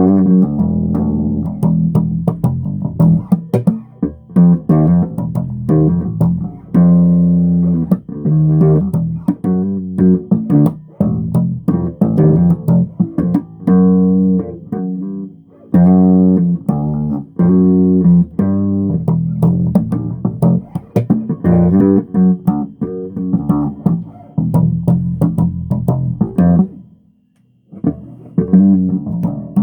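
Bass guitar played solo: a run of plucked notes and riffs, breaking off briefly near the end before the playing resumes.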